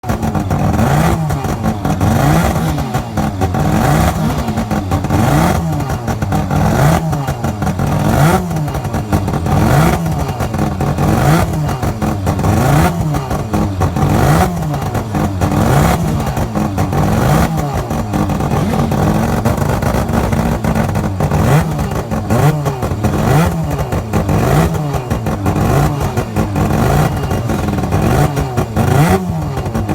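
Norton rotary (Wankel) engine motorcycle revving up and down over and over, its pitch rising and falling about once a second, with a clattery edge.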